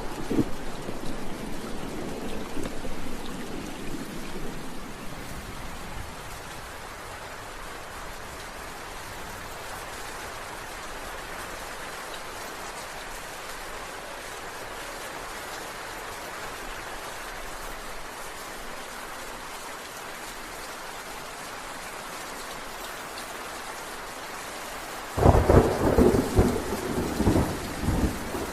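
Steady heavy rain falling, with thunder: a rumble fading away over the first few seconds, then a sudden loud thunderclap near the end that rumbles on for a few seconds.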